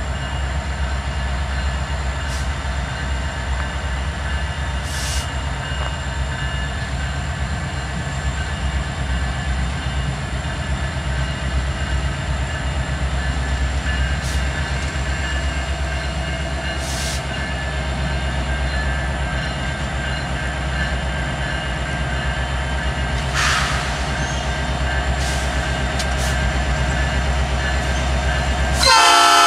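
CN diesel freight locomotives approaching with a steady low engine rumble and rail noise. Near the end the lead unit's horn starts suddenly, a loud chord of several tones from a Nathan P5 five-chime horn.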